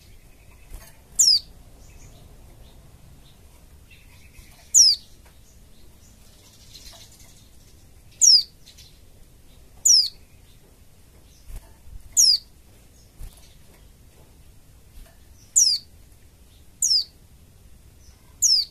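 White-eye (pleci) calling: short, high-pitched notes that sweep steeply down in pitch, repeated every one to three seconds, about eight in all.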